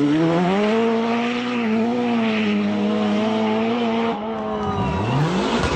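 Rally car engine at high revs: the pitch climbs, holds flat out for about four seconds, then drops briefly on a lift or gear change and climbs again.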